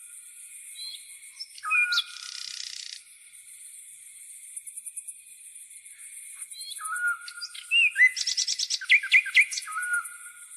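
Songbirds calling with short whistled notes, a brief buzzy phrase about two seconds in and a quick run of chirps near the end, over a steady, rapidly pulsing high-pitched grasshopper trill.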